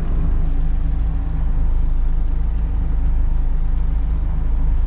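Hino cab-over box truck's diesel engine idling steadily, a low even rumble.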